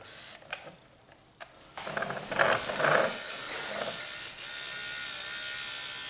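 Small electric gear motor of a 1/14 scale RC log loader whining steadily from about four seconds in, after a stretch of irregular plastic knocks and rattling.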